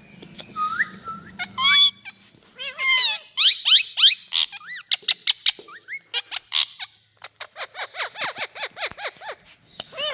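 Parrots calling: varied whistles and squawks that glide in pitch, then a fast run of short, falling chirps, about five a second, over the last couple of seconds.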